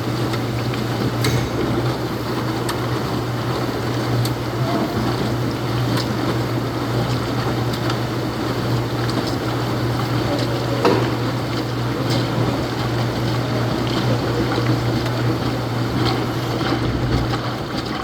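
Laundromat machines running with a steady mechanical drone and a constant low hum, and a few faint clicks and knocks.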